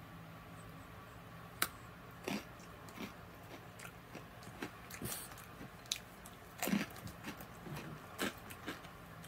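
Crunchy tomato snack sticks, hard like croutons, being bitten and chewed: a scatter of sharp, irregular crunches about once a second.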